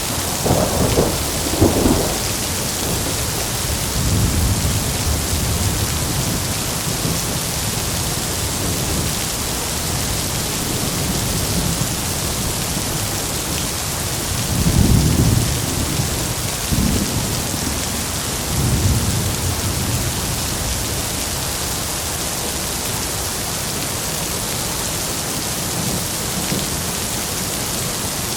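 Heavy rain falling steadily, with thunder: two sharp cracks right at the start, a low rumble a few seconds in, the loudest rolling peal about halfway through, then two smaller rumbles after it.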